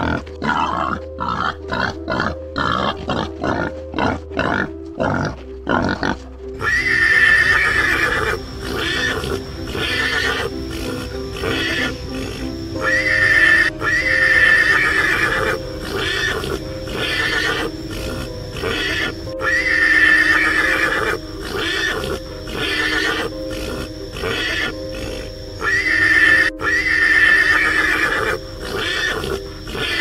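Animal calls over steady background music: a fast run of short animal sounds for the first six seconds or so, then an abrupt change to louder, drawn-out calls that come in pairs about every six seconds.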